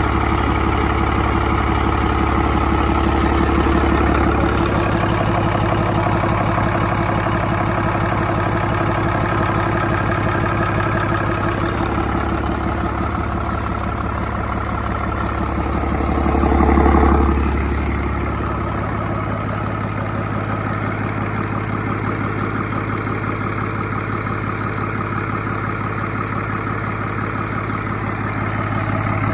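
2011 Cummins ISB 6.7-litre inline-six diesel engine running at a steady idle, swelling briefly louder about seventeen seconds in before settling again.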